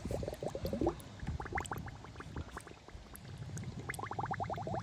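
Liquid bubbling in quick runs of small popping bubbles, each a short rising blip. It comes in three spells: at the start, about one and a half seconds in, and again near the end.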